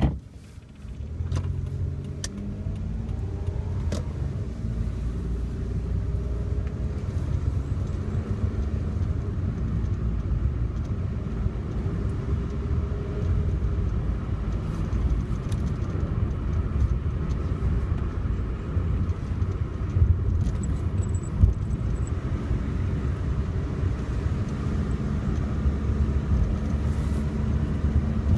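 Car driving along a road: a steady low rumble of engine and tyre noise with engine tones slowly shifting in pitch. It starts after a click about a second in.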